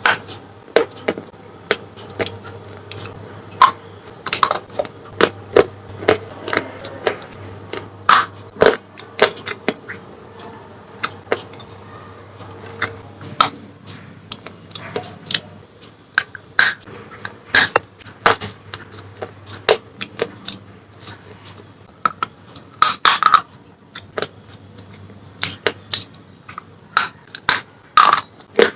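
Close-up crunching of slate pencils being bitten and chewed: irregular sharp crisp cracks, several a second at times, with a faint steady hum underneath.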